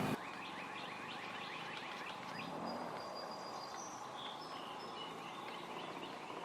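Faint birds chirping: a quick run of short falling chirps for the first few seconds, then a few scattered higher whistles, over a low hiss.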